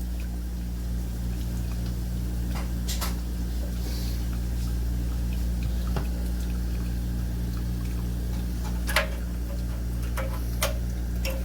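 Steady low running noise of an electric water heater tank draining, with a few sharp clicks of plastic clips and small parts being handled, the loudest about nine seconds in.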